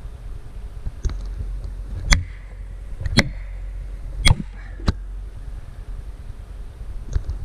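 A felling wedge being driven into a tree cut: a series of sharp strikes, the three loudest about a second apart in the middle, with a few lighter ones around them.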